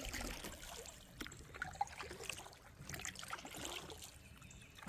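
River water trickling and dripping around a kayak, in small irregular splashes.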